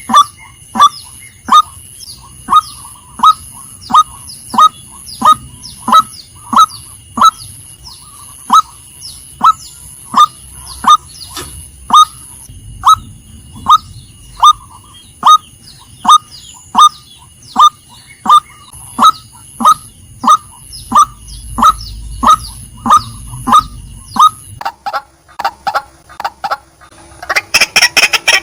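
Female white-breasted waterhen calling: a repeated short, falling 'kwak' note, about one and a half a second. Near the end the calls quicken into a faster, denser run.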